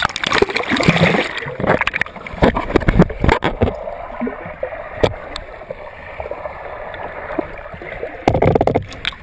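Rushing, churning water with splashing and sharp knocks, starting abruptly; busiest in the first few seconds, then steadier, with another loud surge near the end.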